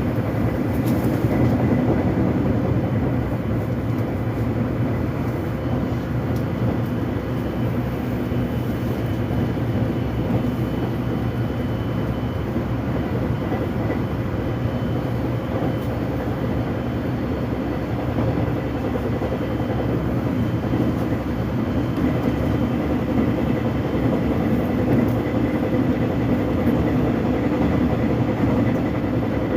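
Korean subway train running between stations, heard from inside the car: a steady rumble of wheels on the rails and car noise, with a faint, high steady whine over it.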